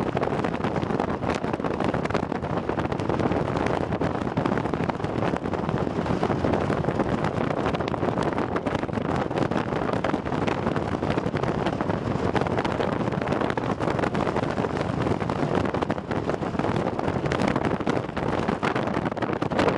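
Steady rushing wind noise buffeting the microphone aboard a moving ship, with the ship's running noise beneath.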